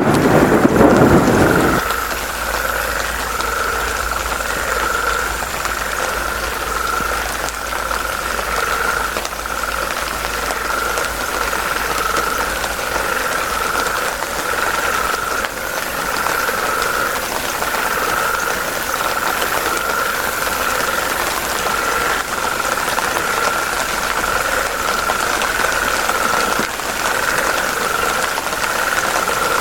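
A frog chorus by a river: a steady, rapidly pulsing trill with a weaker lower band beneath it. A louder, lower burst of noise sits under the chorus for the first two seconds.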